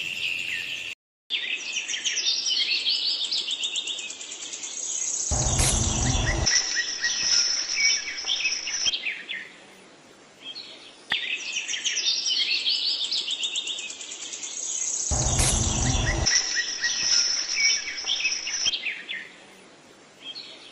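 Birds chirping and twittering, with a louder burst of rustling noise about five seconds in and again about fifteen seconds in. The whole pattern repeats after about ten seconds, like a looped nature-ambience track.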